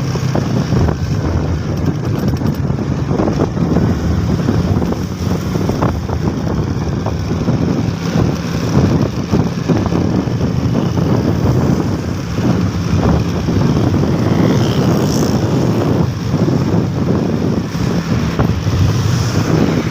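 Steady running vehicle noise with a low engine hum, and wind buffeting the microphone in frequent short gusts.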